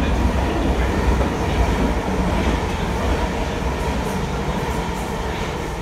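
South Western Railway Class 455 and 456 electric multiple units running past along the far track, a steady low rumble of wheels on rail that eases slightly as the train draws away.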